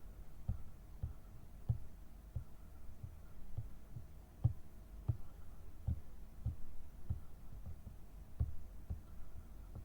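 Soft, irregular low thumps, about one or two a second, over a faint steady hum.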